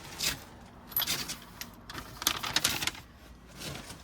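Irregular bursts of clinking and rustling from furniture assembly parts being handled, in three main clusters.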